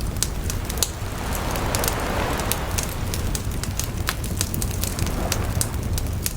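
Wood bonfire crackling, with many sharp, irregular pops over a steady low rumble. A soft hiss swells up about a second in and fades over the next two seconds.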